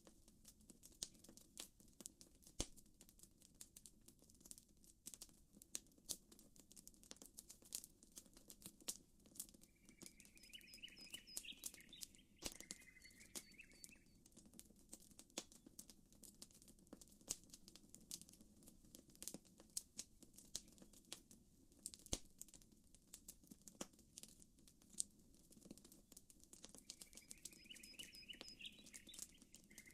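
Campfire crackling with frequent sharp pops over a soft, steady low wash. A short chirping bird call comes in about a third of the way through and again near the end.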